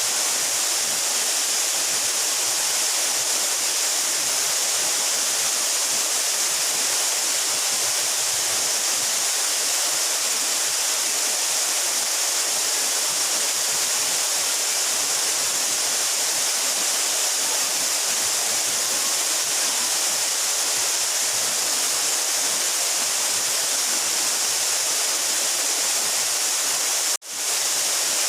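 12-metre mountain waterfall: a steady rush of falling water, strongest in a high hiss. About a second before the end it cuts out abruptly and fades back in.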